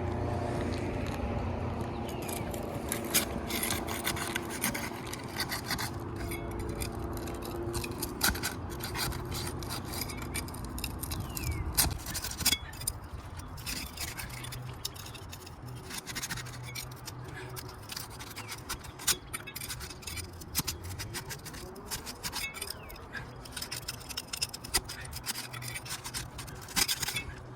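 Asphalt shingles being pried up to break their adhesive seal strips: irregular scraping and short clicks as the tool works under the shingle tabs, over a steady low hum.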